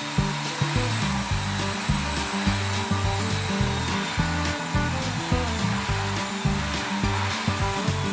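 Narwal S10 Pro cordless wet-dry vacuum mop running with a steady whir, under background music with a steady beat and a stepping bass line.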